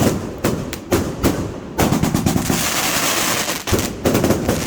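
Fireworks going off: a rapid, irregular string of sharp bangs, then from about two seconds in a steady crackling hiss, with another run of bangs near the end.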